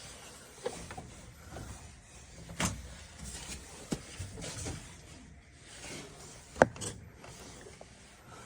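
Scattered knocks, clicks and rustling of things being handled, with a sharp knock about two and a half seconds in and the loudest, sharpest one about six and a half seconds in.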